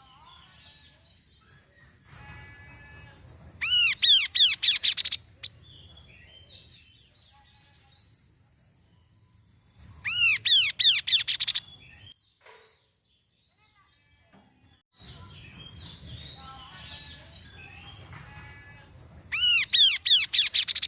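Kaso-kaso songbird singing: three loud, rapid phrases of arching, ringing notes, each lasting about a second and a half and spaced about 7 to 8 seconds apart, with softer chirps in between. A thin, steady high tone runs under it, and the sound cuts out for a few seconds after the second phrase.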